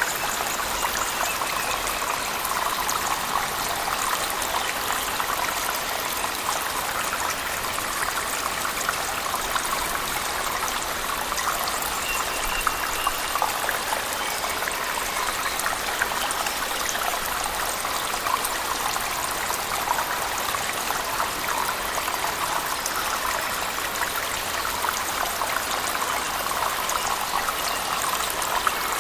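Waterfall in a cave mixed with heavy rain: a steady, even rush of falling water with a fine patter of drops running through it.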